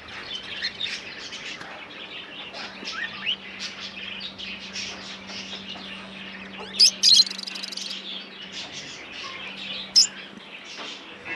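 Many birds chirping and calling over one another, with a few loud, sharp calls: two close together about two-thirds of the way through and one more shortly after. A steady low hum runs underneath.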